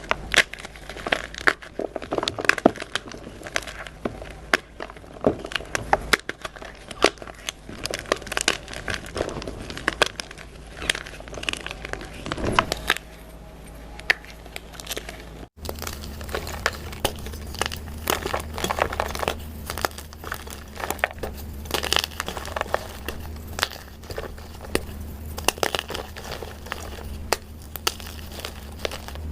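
Dyed gym chalk being crushed and crumbled: a dense run of irregular sharp crunches and crackles. About fifteen seconds in there is an abrupt cut, after which a steady low hum sits louder under the crunching.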